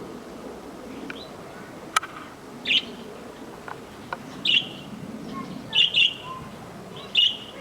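Caged canary giving short, separate chirps, about five of them, with a quick double chirp around the middle. A single sharp click sounds about two seconds in.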